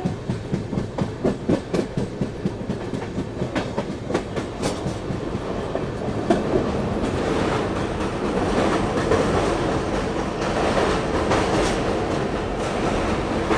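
Duronto Express train running at speed, its wheels clacking in a quick regular rhythm over the rail joints for the first several seconds before the sound settles into a steadier rumble.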